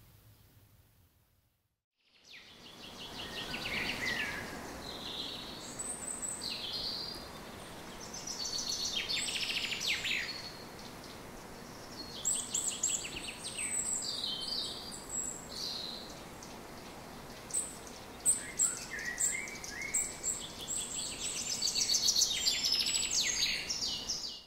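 Songbird singing: a series of varied chirps, short whistles and rapid trills, starting about two seconds in after a brief silence, over a steady background hiss.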